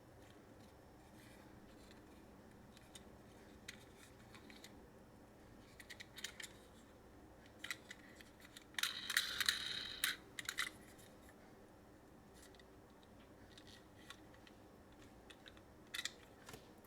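Small toy cars and plastic being handled: scattered faint clicks and taps, with a brief rattling clatter about nine seconds in.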